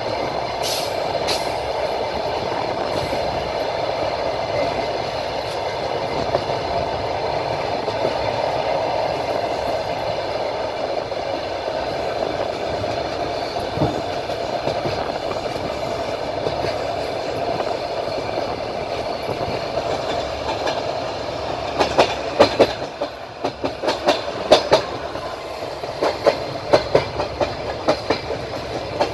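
A train running on the rails, heard from on board: a steady rolling rumble of the wheels. From about two-thirds of the way in it turns to a series of sharp clacks in quick clusters as the wheels cross rail joints.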